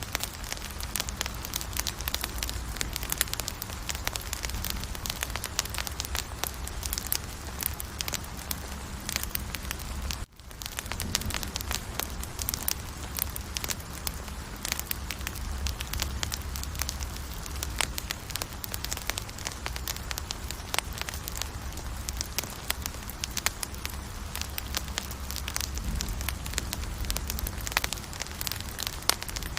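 Campfire crackling, with many irregular pops and snaps of burning wood over a low, steady rumble. The sound drops out briefly about ten seconds in.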